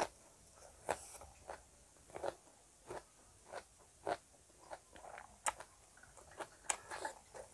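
A person chewing a mouthful of food close to the microphone: a steady run of short, separate mouth smacks and clicks, roughly one or two a second.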